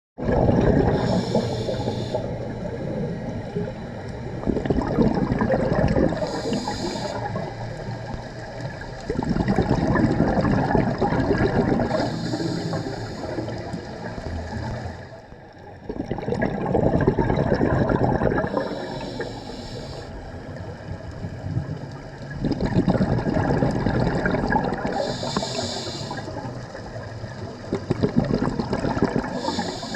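Scuba diver breathing underwater through a regulator: a short hiss on each inhale, then a long burble of exhaled bubbles, repeating about every six seconds.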